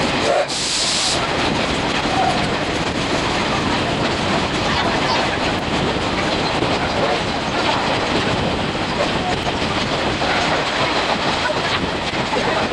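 Running noise of an Oha 50-series passenger coach heard from inside: a steady rush of wheel-on-rail clatter, sped up six times.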